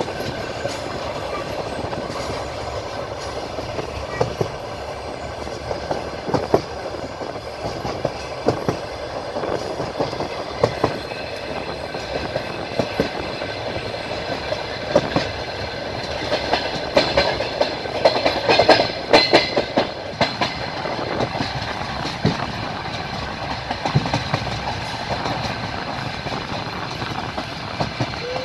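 Train wheels clattering over rail joints under a steady rumble of the moving train, heard from on board at the carriage window. The knocks come irregularly, with a denser run of knocks and rattles about two-thirds of the way through.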